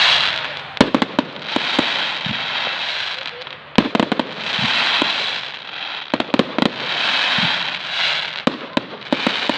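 Aerial fireworks display: shells bursting in clusters of sharp bangs, with a long hiss of burning effects after each cluster.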